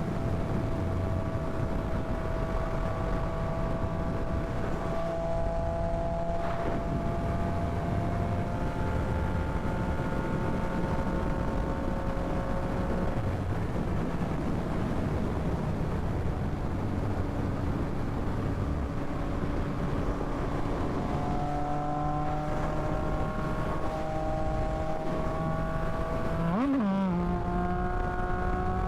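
Yamaha MT-09's three-cylinder engine running at riding speed, with wind rush on the microphone; the engine pitch climbs slowly, and near the end it jumps briefly up and down before settling.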